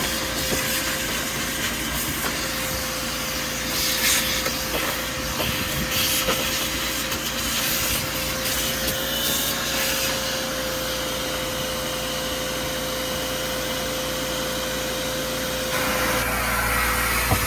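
Vacuum cleaner running steadily, a motor whine held at one pitch under a hiss of rushing air, with brief louder patches as the nozzle is worked over the car's interior.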